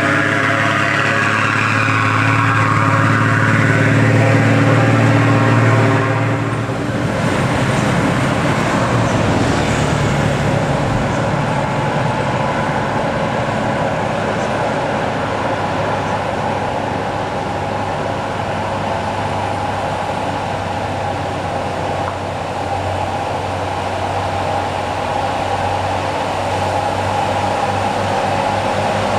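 Diesel engines of heavily loaded trucks labouring up a steep climb. A loud engine note with a strong low hum drops away about six and a half seconds in, and a rougher, steady engine sound carries on after it.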